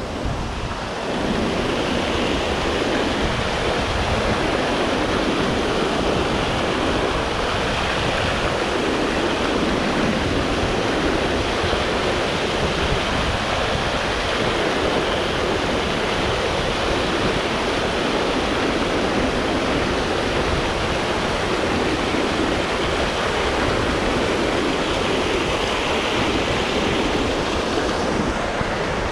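Steady rush of a river in flood, whitewater running fast over rapids, getting a little louder about a second in and then holding even.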